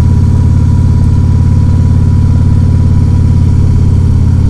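Motorcycle trike's engine running steadily while riding along, its pitch holding level.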